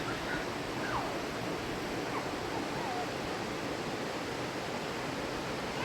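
Rushing river water, a steady even wash, with a few faint short falling calls over it in the first three seconds.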